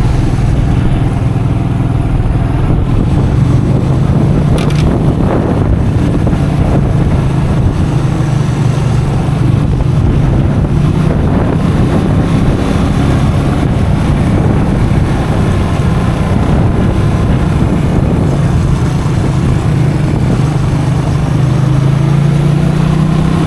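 Custom motorcycle's engine running while being ridden, with wind buffeting the microphone; the engine note climbs near the end.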